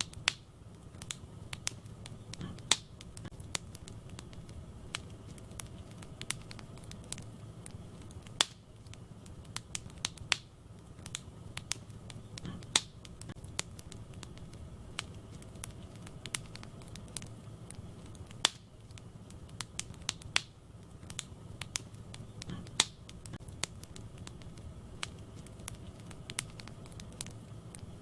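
Wood fire burning in a fireplace: a steady low rumble of flames with irregular crackling and sharp pops from the burning logs, a few of them louder.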